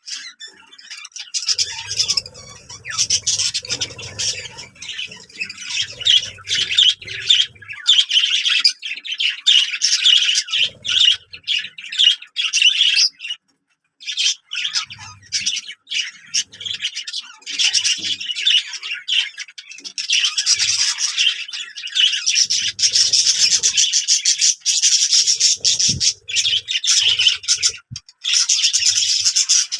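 Many small birds chirping and squawking in a dense, continuous chatter of rapid high notes, with a brief pause about halfway through.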